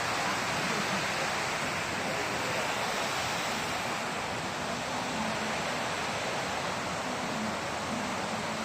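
A steady rushing hiss of outdoor background noise.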